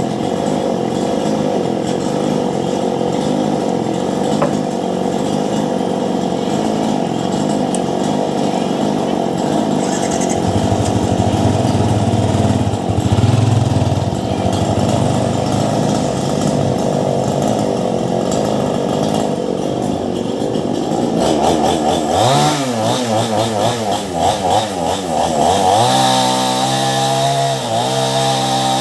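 Ryu two-stroke chainsaw with a STIHL chain cutting steadily under load into a large mango trunk for about twenty seconds. Near the end the engine pitch swings up and down several times, then it runs high with brief dips.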